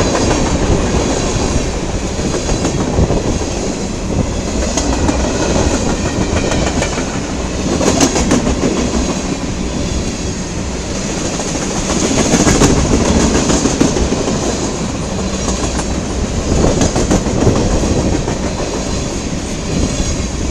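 CSX local freight train rolling past, its steel wheels clicking and clattering over the rail joints under a steady rumble. The sound swells louder several times as cars go by.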